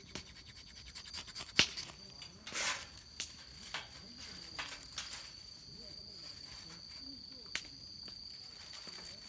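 Scattered sharp crackles and a short rustle from a fire-lighting attempt with dry leaves, over a steady high-pitched insect drone.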